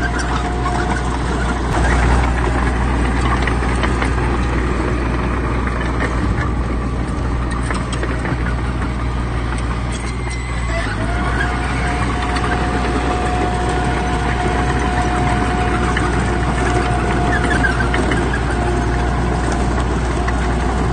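Heavy diesel earthmoving machinery running steadily, with a deep engine drone and a steady whine over it that drops out briefly about halfway through, then returns.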